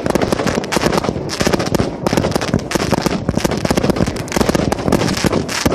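A consumer fireworks cake firing: a dense, unbroken run of rapid pops and crackling reports, many a second.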